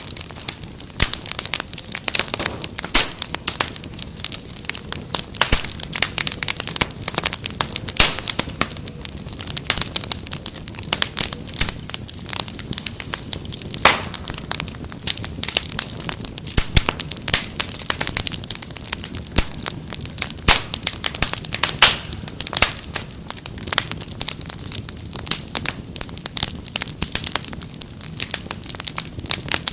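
Wood fire in a fireplace crackling: a steady stream of irregular pops and snaps over a soft low hiss.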